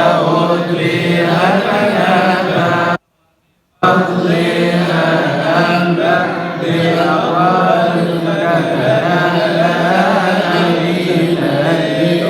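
Male voice chanting an Arabic Coptic praise hymn (madih) in long, drawn-out melismatic phrases. The sound cuts out completely for just under a second about three seconds in, then the chanting resumes.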